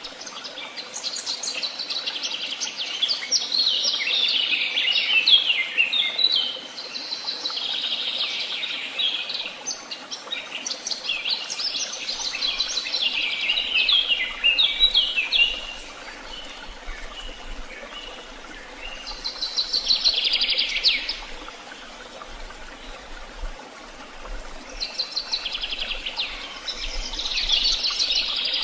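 Woodland songbirds singing: several high-pitched phrases of rapid, twittering notes, separated by pauses of a few seconds.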